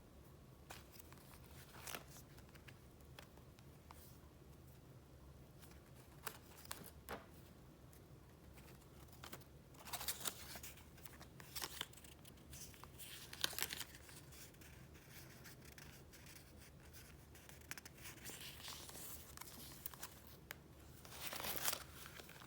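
Paper being handled and flipped through: faint, intermittent rustles and crinkles, with louder bursts about ten, thirteen and twenty-one seconds in, over a faint steady low hum.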